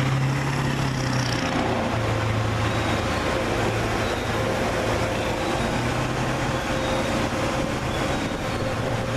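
Car wash equipment running steadily, an even rush of noise over a low hum and a thin steady whine.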